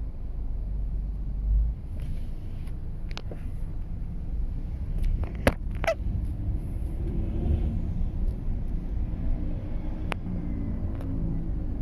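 Road traffic rumbling steadily, with a few sharp clicks or knocks about halfway through and again near the end.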